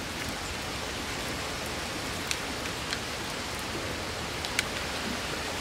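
Chicken pieces sizzling in hot oil in a metal pot over a wood fire: a steady hiss with a few sharp pops.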